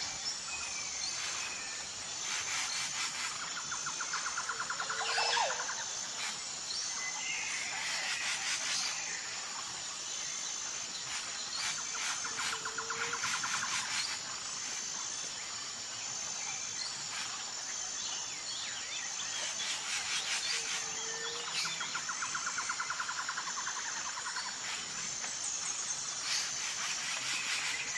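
Nature ambience: birds chirping and calling over a steady, high, pulsing insect drone. A trilled call and a short low call come back about every eight seconds.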